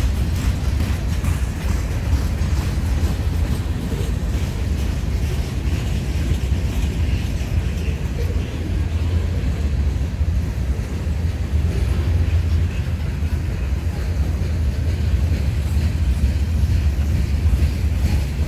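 Freight train of boxcars and covered hopper cars rolling past, a steady low rumble of steel wheels on the rails.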